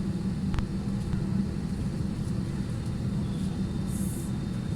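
Steady low hum and rumble of a parked airliner's cabin, with one sharp click about half a second in and a brief hiss near the end.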